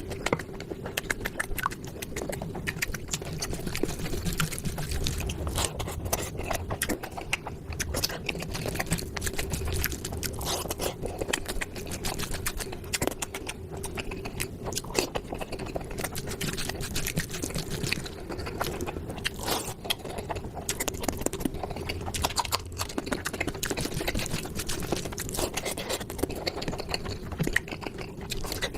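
Close-miked eating sounds: wet chewing and mouth clicks as curry with puri and rice is eaten, going on without a break, over a steady hum.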